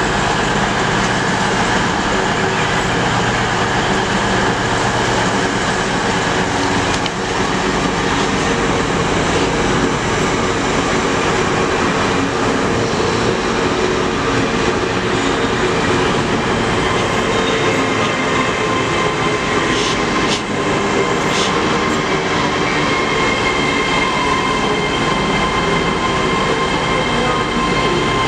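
A train running at a station platform: a continuous loud rumble with steady high-pitched whines whose pitch changes partway through. A couple of sharp clicks come about two-thirds of the way in.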